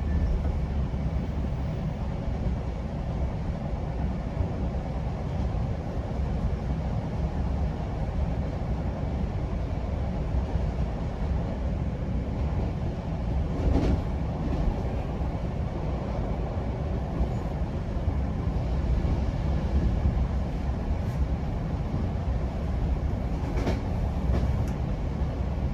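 GO Transit commuter train running along the rails: a steady low rumble of wheels on track, with a sharp click about 14 seconds in and another near the end.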